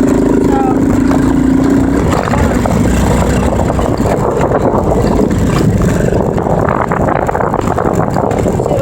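Dirt bike engine running, with a steady tone for about the first two seconds that then gives way to a rougher, noisier sound.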